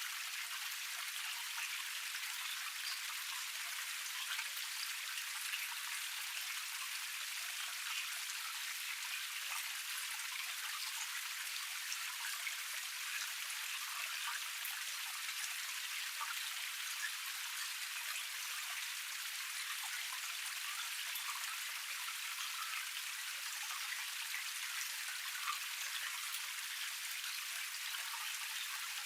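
Small cascade waterfall: water spilling and splashing steadily over a low rock tier, a dense patter of small splashes over an even rush.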